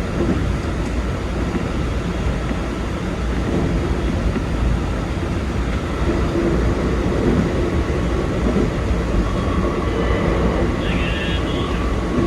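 Keikyu 2100-series electric train running at speed, heard from the driver's cab: a steady rumble of wheels and running gear, with a thin steady tone coming in near the end.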